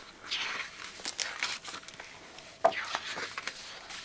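Paper pages of a picture book being handled and turned: rustling swishes, with a sharper flick and rustle about two-thirds of the way through.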